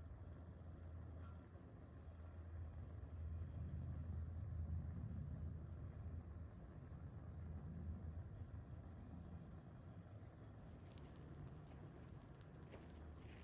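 Insects chirping in high, pulsing trills that come in repeated bursts every second or so, over a steady low rumble. From about ten seconds in, light scattered clicks join them.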